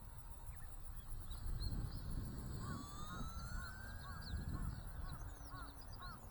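Wind buffeting the microphone with a low rumble, under the faint sliding whine of a small RC plane's brushless electric motor passing. From about the middle, a bird calls in a quick run of short chirps.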